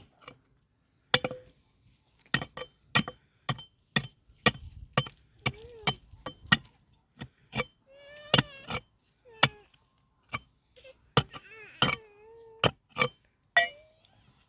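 A series of sharp, hard knocks from hand-tool strikes, about one or two a second and irregular. A cat meows several short times in the second half.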